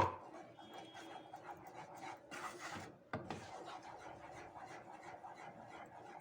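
Spoon scraping and stirring a chocolate and margarine mixture in a saucepan, soft and irregular, with a sharp knock right at the start.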